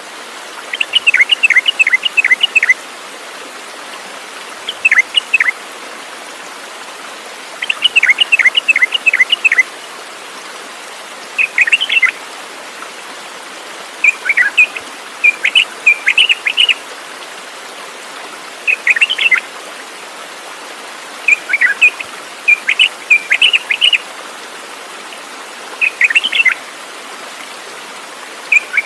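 A songbird singing short phrases of rapid high chirps, a new phrase every few seconds, over a steady background hiss.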